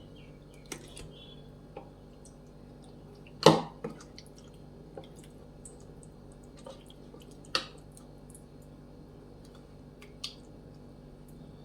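Hands rubbing wet masala paste into raw chicken pieces, a soft wet squishing, with a few sharp knocks, the loudest about three and a half seconds in and two more later.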